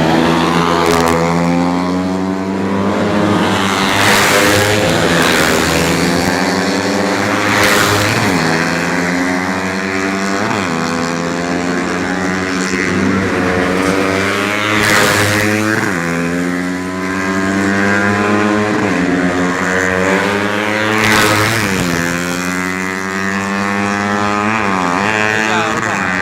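Several four-stroke 125 cc underbone racing motorcycles at high revs, their engine notes overlapping, each pitch repeatedly dipping sharply and climbing again. The sound swells briefly about four, eight, fifteen and twenty-one seconds in as bikes come close.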